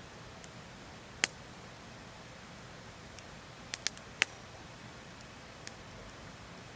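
Wood fire crackling: sparse sharp pops and snaps, the loudest about a second in and a quick cluster of three or four near the middle, over a faint steady hiss.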